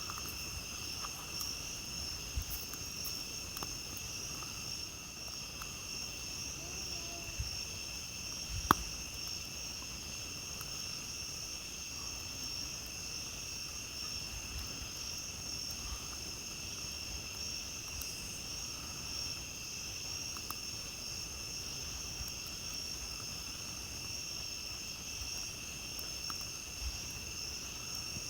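Night insects trilling without a break at two high pitches, over a campfire crackling with scattered small pops and one sharp pop about nine seconds in.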